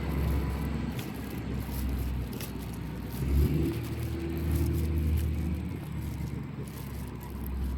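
Heavy diesel truck engine, the Beiben 2642's WP12.420E diesel, running with a deep low rumble that swells and eases a few times, as under changing throttle.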